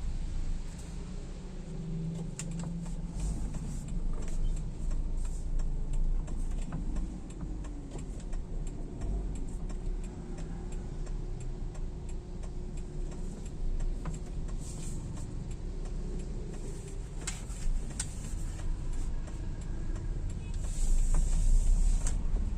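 Car cabin noise while driving: a steady low engine and road rumble with scattered small clicks, and a brief hiss near the end.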